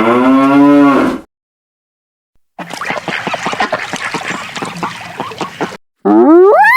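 A long pitched farm-animal call in the first second, then, after a short gap, about three seconds of ducks quacking in a rapid run, then a horse's whinny starting near the end with a sharply rising pitch.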